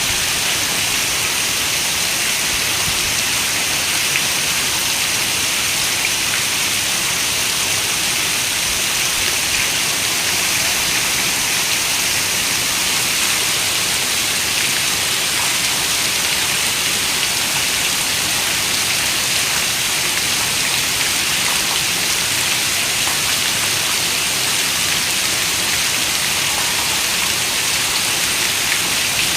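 Steady rain: a dense, even hiss of many drops, brightest in the upper range, holding one level throughout.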